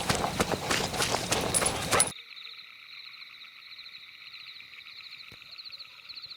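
Fast running footsteps, with many quick crunching steps through forest undergrowth. About two seconds in they cut off abruptly, leaving a thinner, steady, high-pitched chirring night chorus with a fast ticking pulse.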